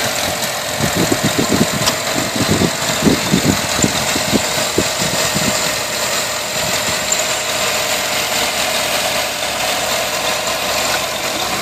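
A 2008 Chevrolet Avalanche's 5.3-litre V8 engine idling steadily, heard with the hood open.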